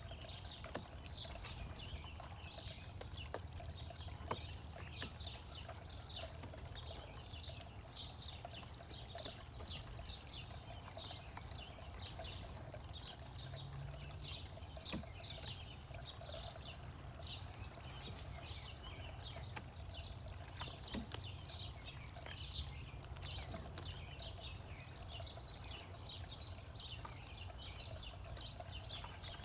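Small backyard birds chirping continuously, many short quick calls overlapping, over a steady low background rumble.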